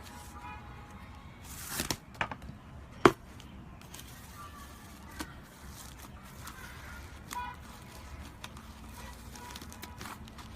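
Slime being squeezed and pressed by hand, with scattered crackles and clicks, a brief squelching swell and one sharp pop about three seconds in.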